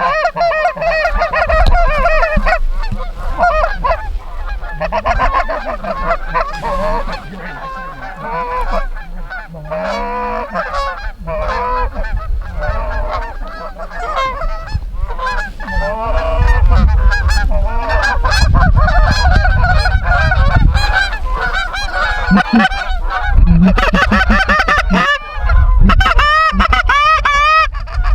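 Many geese honking and clucking at once in a steady, overlapping din of calls, with gusts of wind rumbling on the microphone partway through.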